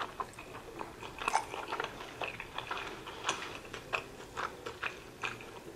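A person chewing a mouthful of sweet potato tempura sushi roll: a string of short, irregular clicks from the mouth.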